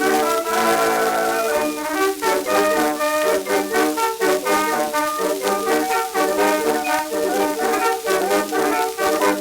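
Instrumental music with brass instruments playing the melody, from an early acoustic-era shellac disc, with surface hiss under the notes.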